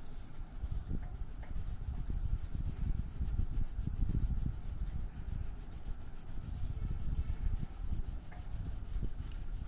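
Colouring medium rubbed back and forth across paper in quick shading strokes, a continuous rubbing rustle.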